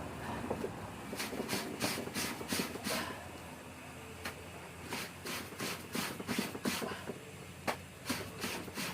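Clothes being scrubbed by hand in laundry washing: quick swishing rubbing strokes, about four a second, in two runs with a pause between them.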